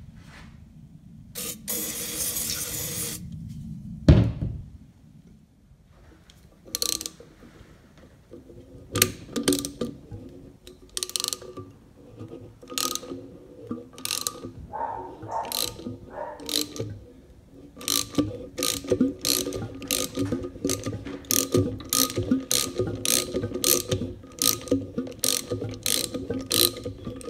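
A hiss of aerosol penetrant sprayed into a seized Bennett gas-pump meter, a single knock, then a socket-wrench ratchet clicking, settling into a steady run of about two clicks a second as the frozen meter is worked free.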